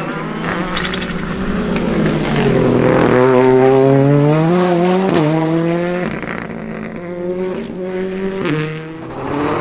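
Ford Fiesta R5 rally car's engine driven hard on a stage, its revs climbing and dropping with quick gear changes, loudest in the middle.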